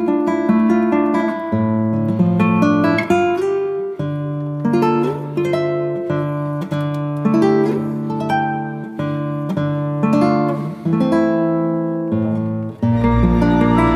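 Background music: a plucked acoustic guitar playing a melody over a bass line, giving way near the end to a fuller, more sustained backing track.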